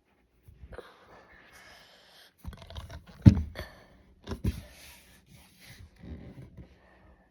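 Rustling and scraping handling noises with a sharp thump a little over three seconds in, the loudest sound, and a second thump about a second later.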